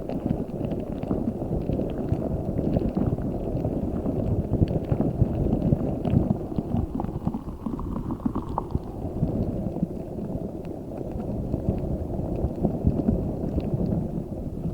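A giant spiky orbeez ball, a squishy stress ball filled with water beads, squeezed and kneaded by hand without pause. It makes a dense, low squishing sound with scattered small clicks.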